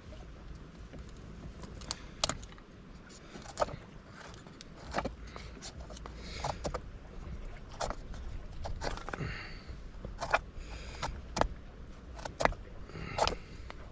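Irregular sharp cracks and knocks, about one a second, with rustling in between, from firewood being broken and worked by hand into sticks and kindling.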